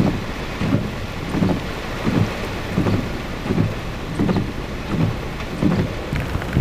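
Wind and rain noise from a severe thunderstorm, with regular low thumps about every 0.7 seconds.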